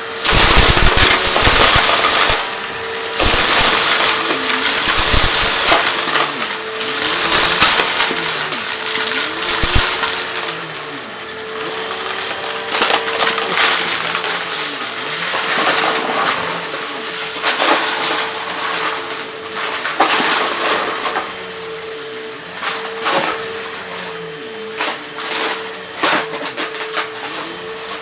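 Vacuum cleaner running with a steady motor whine while sucking up dry crunchy debris, a dense crackling crunch that is loudest in the first ten seconds and thins out later.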